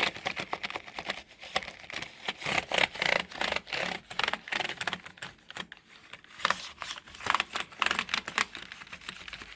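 A brush scrubbing back and forth over computer keyboard keys, the keycaps clicking and rattling in quick, irregular strokes.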